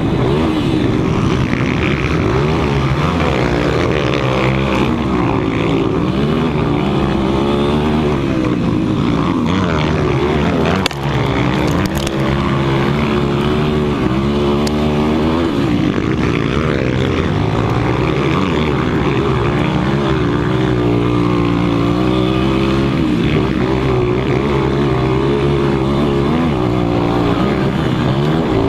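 Several 200 cc motocross bikes running together, their engines revving up and down repeatedly with throttle and gear changes.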